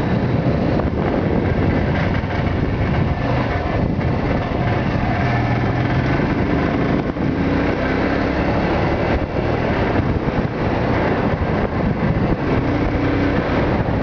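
Yamaha YBR motorcycle's single-cylinder engine running steadily while riding, mixed with the rush of wind over the microphone.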